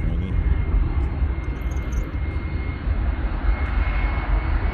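Jet engines of a Turkish cargo airliner, listed as an Airbus A310, coming in to land: a steady rumble with a faint high whine that grows louder near the end.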